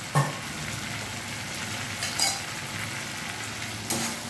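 Masala paste frying in oil in an aluminium kadai, sizzling steadily, while a flat metal spatula stirs it and scrapes the pan a few times.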